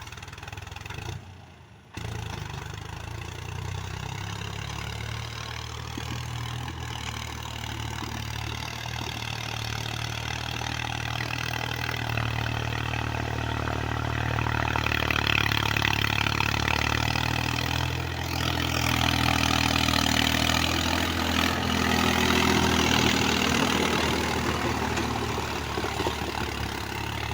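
Mahindra Yuvo 275 DI 35 hp diesel tractor engine running steadily under load while driving a rotavator, growing louder from about twelve seconds in. The sound drops out briefly about a second in.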